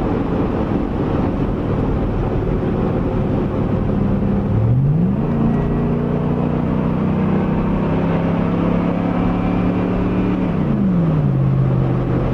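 2001 Chevrolet Tahoe's 5.3-litre V8 running through a Flowmaster Super 44 muffler and 3-inch cat-back exhaust. The engine speed rises about four and a half seconds in, holds steady for about five seconds, then drops back near the end.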